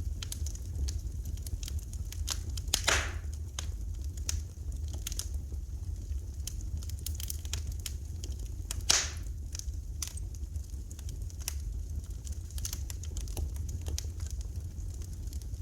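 Wood fire crackling in a fireplace: many small irregular crackles, with two louder pops about three and nine seconds in, over a steady low rumble.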